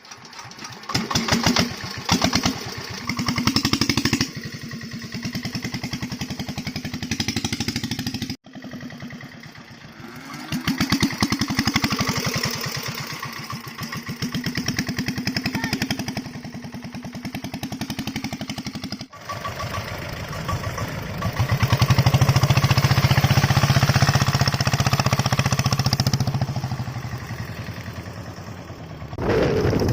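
Homemade diesel motorcycle's engine running, revved up and back down several times, in three separate stretches with abrupt breaks between them.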